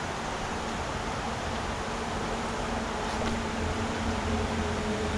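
Steady rush of a mountain river's flowing water, with a faint steady hum joining it about a second and a half in.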